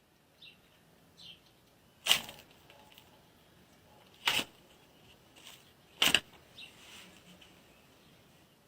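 Three sharp cracks about two seconds apart, with a few faint, short, high chirps between them.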